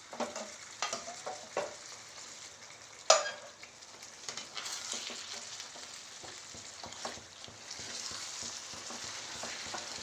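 Chicken and roasted masala sizzling in a pan with a little hot water just added, as a spoon stirs. The spoon knocks against the pan several times in the first two seconds and clinks sharply once about three seconds in, and the sizzle grows a little louder toward the end.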